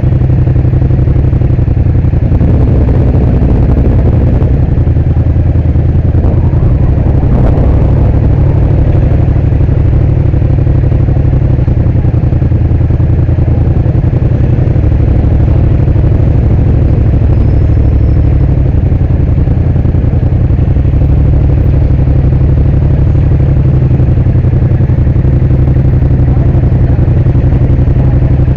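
Yamaha MT-07's parallel-twin engine idling steadily, heard loud and close.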